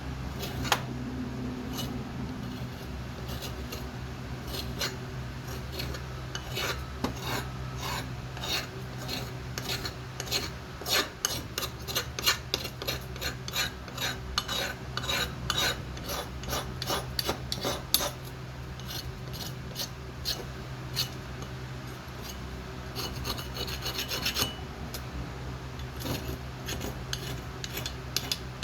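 Metal of a blacksmith's vice being scraped by hand in runs of quick rasping strokes, a few a second, that stop and start. A steady low hum runs underneath.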